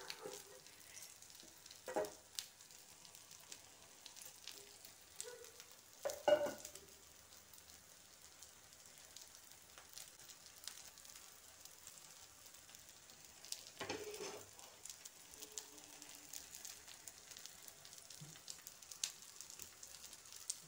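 Gram-flour-battered eggplant slices (baigana bhaja) sizzling softly in shallow oil on a flat tawa, a steady faint crackle, broken by a few brief louder knocks about 2, 6 and 14 seconds in.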